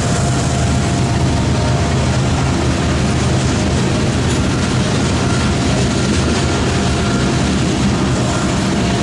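Freight train of covered hopper cars rolling past at speed: a steady, heavy rumble of steel wheels on rail, with a few faint steady tones above it.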